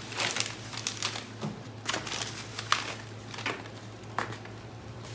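Packaging crinkling and rustling in irregular bursts as it is handled and gathered up.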